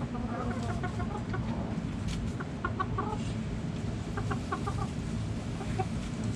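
Backyard hens clucking: quick runs of short clucks, a few at a time, over a steady low rumble.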